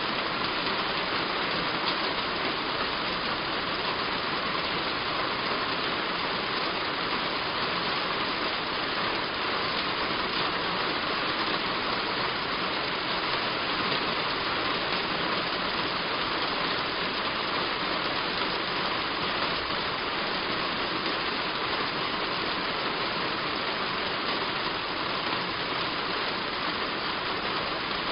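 Heavy rain falling steadily on a roof: an even, unbroken hiss with no let-up.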